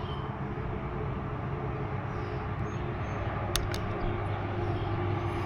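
Steady low mechanical drone with a constant hum, like a running engine or machinery, and two short clicks a little past halfway.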